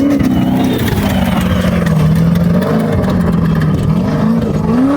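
Off-road race vehicle's engine revving hard as it goes by, its pitch rising and falling several times over loud mechanical and dirt noise.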